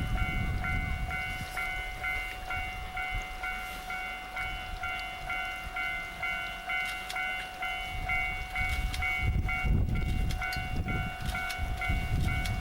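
Japanese level-crossing warning bell ringing in an even repeating pattern about twice a second. A low rumble builds under it in the last four seconds.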